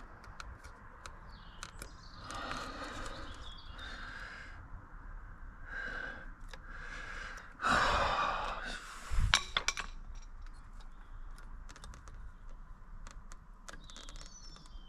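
A man sighing and breathing hard while working at stubborn plastic parts, with a loud exasperated exhale about eight seconds in followed by a quick cluster of sharp clicks and knocks.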